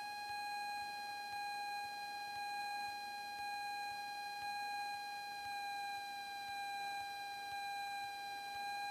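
A steady electrical whine in the Cessna 172's intercom audio, one high tone with overtones that drifts slightly in pitch over a faint hiss.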